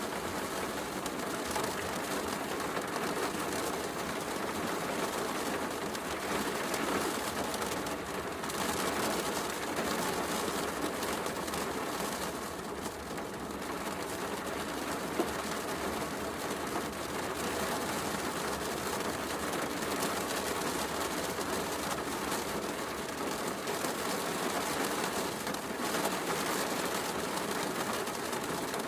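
Steady heavy rain falling, a dense even hiss, mixed with small crackles from a wood fire, one sharp pop about fifteen seconds in.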